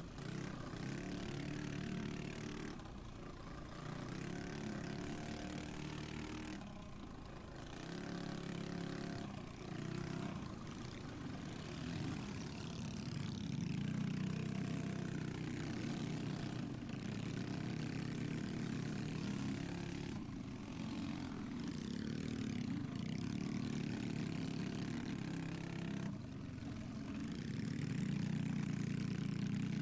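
Pit bike engine running at race pace, its revs climbing and falling again and again, with several brief drops where the throttle is rolled off.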